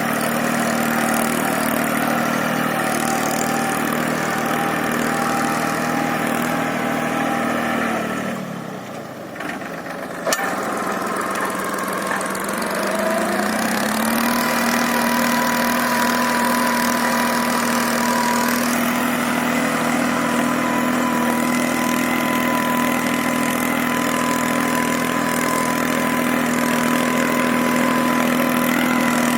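Abhiman 4x4 tractor's diesel engine running steadily. About a third of the way in its pitch drops and the sound falls away. After a sharp click it speeds back up and runs steadily again at a slightly higher pitch.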